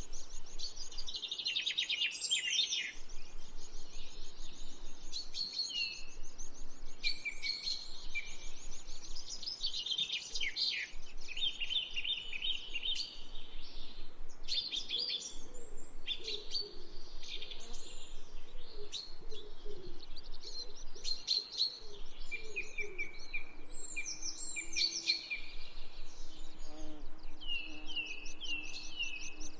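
A chorus of several birds calling and singing at once: rapid high chirps, trills and short whistles overlapping throughout, with some lower calls joining in the second half.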